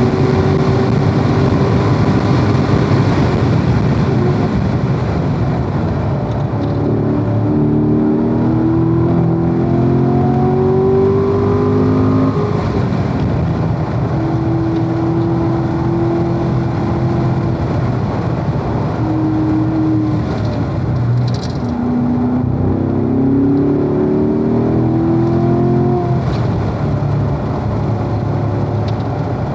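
Corvette V8 engine at racing speed, accelerating hard with its pitch rising through the gears. Twice it lifts off and drops in pitch, about twelve seconds in and again about twenty-one seconds in, then pulls up through the revs again, over steady wind and tyre noise.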